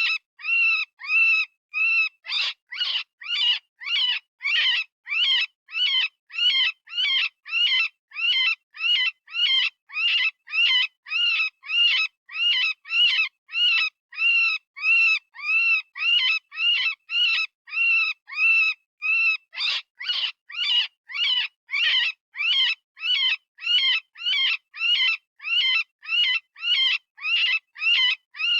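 Synthesised rabbit distress call: a rapid string of short, high, arched screams, about two a second, repeated without pause.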